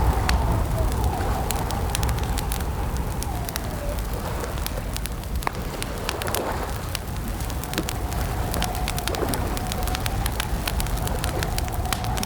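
Campfire crackling: frequent sharp pops and snaps over a steady low rumble. A steady, slightly wavering tone runs underneath and dips in pitch about three to four seconds in.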